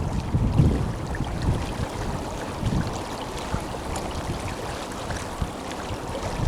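Tenryū River flowing: a steady rush of running water. Low gusts of wind buffet the microphone now and then, strongest about half a second in.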